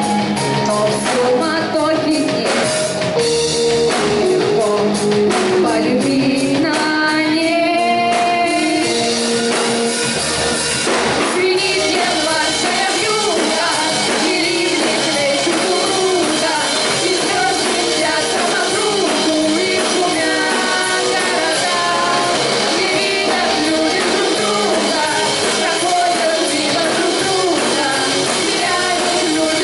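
Rock band playing live, with a drum kit, guitars and a singing voice.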